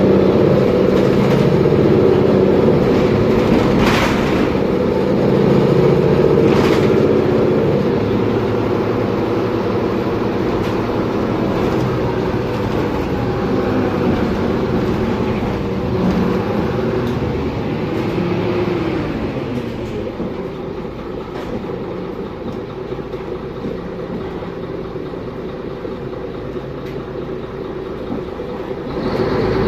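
Second-generation Mercedes-Benz Conecto G bus under way, its OM457LA straight-six turbo diesel and driveline running with rattling from loose parts. Two sharp knocks come early on, a whine rises and falls about two-thirds through, and the sound drops back from about 20 s in before building again near the end.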